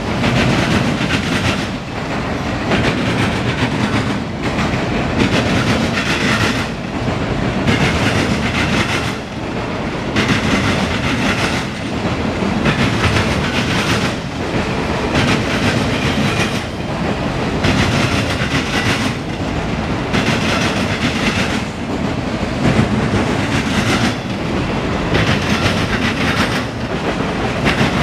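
CSX autorack freight train rolling past, its car wheels clattering over the rail joints in a clickety-clack that swells and fades about every two seconds as each car goes by.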